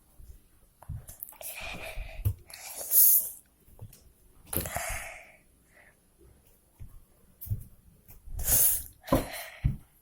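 A person's breath and mouth noises close to the microphone, in several short, irregular bursts with quiet gaps between.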